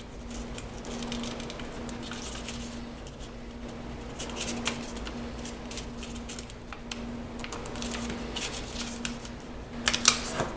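A square sheet of origami paper being folded in half and creased by hand: irregular rustling and crinkling, with a cluster of sharper crackles near the end.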